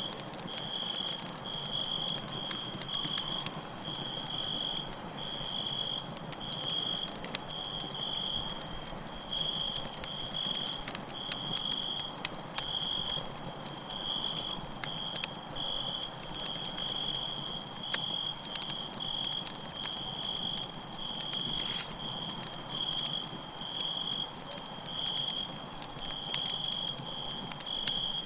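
Campfire crackling with scattered sharp pops over a steady hiss, while a cricket chirps in an unbroken run of short high chirps, about two or three a second.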